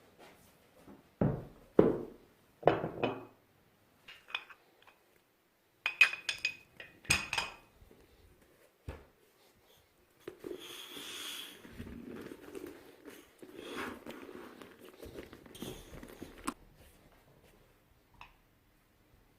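Workshop handling sounds: a few knocks, then metallic clinks that ring briefly, like metal parts or tools set down on a bench. About ten seconds in comes roughly six seconds of steady rubbing or scraping.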